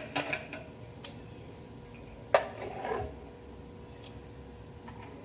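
A few light metallic clinks and knocks as tools and parts are handled during an oil change, the sharpest about two seconds in, over a faint steady hum.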